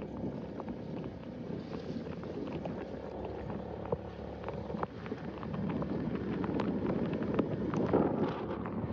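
Rain falling, a steady wash of noise with scattered sharp drop hits, growing heavier about halfway through.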